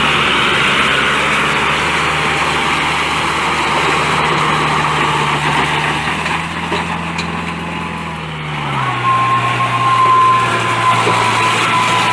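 Tractor engine running steadily. Its note drops lower about eight and a half seconds in, and a high steady whine joins it soon after.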